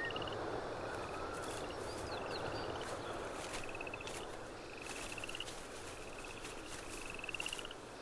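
Birds calling on open tundra: a short, pulsed trill that rises slightly, repeated every second or so, with a few faint clicks over a steady background hiss.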